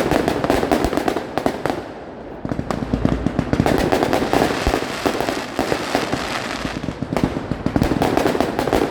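Fireworks display: a dense run of crackling bangs and pops from bursting shells, easing briefly about two seconds in before picking up again.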